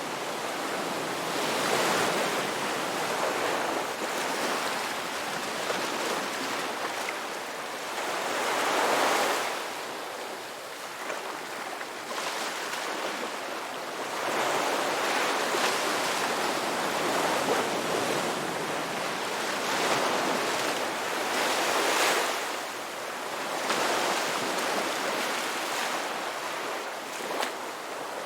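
Ocean waves breaking and washing onto a shore, a continuous rush of surf that swells and recedes every few seconds.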